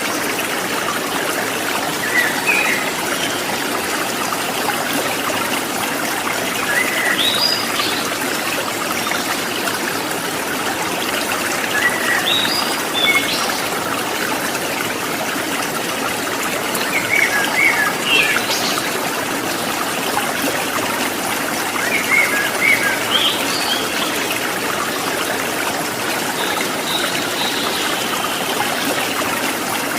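Water trickling steadily like a small stream, with a bird's short chirping phrases coming back about every five seconds.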